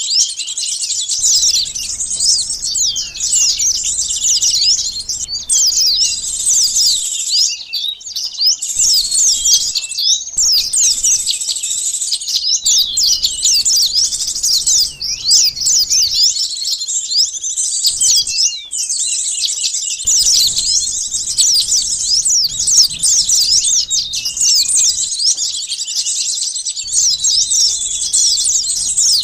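A dense, busy chorus of small birds, many high, rapid chirps and twittering calls overlapping without pause. It is a bird-trapping lure recording of sunbirds, played to draw wild birds in.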